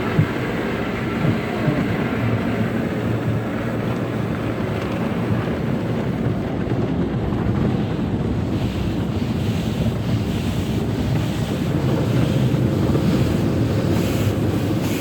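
Automatic car wash working over the car, heard from inside the cabin: a steady rush of water spray and cloth washer strips scrubbing the body. It grows a little louder and brighter in the second half.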